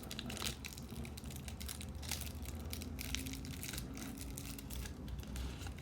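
Trading cards being handled and shuffled, with rustling, crinkling and many small sharp clicks.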